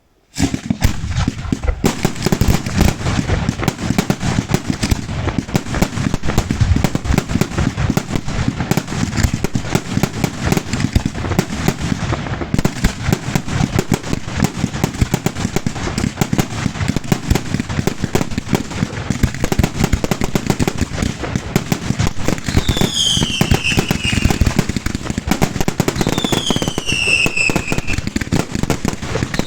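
Fireworks finale: a dense, continuous barrage of rapid bangs and crackling. Near the end, two whistles fall in pitch over the bangs.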